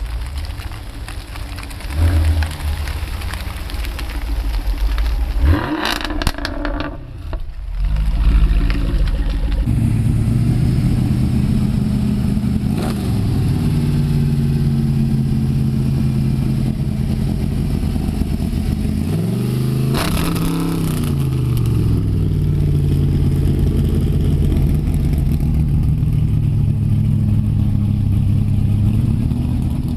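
C3 Chevrolet Corvette's V8 idling steadily from about ten seconds in, with a brief blip of the throttle about twenty seconds in. Before that, less steady engine and car-park noise.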